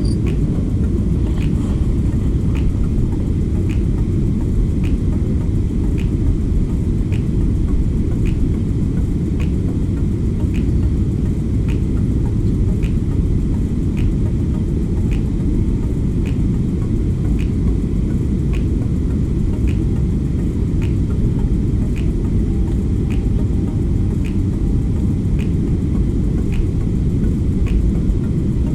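Steady low rumbling noise, with a faint high click repeating about once a second.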